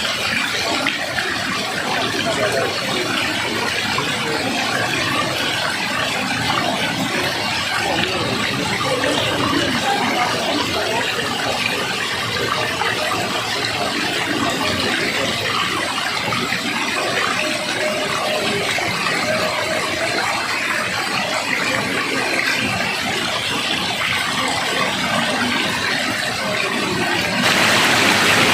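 Steady rushing of flowing water, a continuous dense hiss. It grows louder and brighter near the end.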